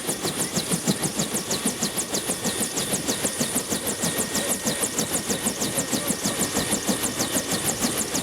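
Bell UH-1 Huey helicopter running: a fast, even beat from its two-bladed main rotor over a steady high turbine whine.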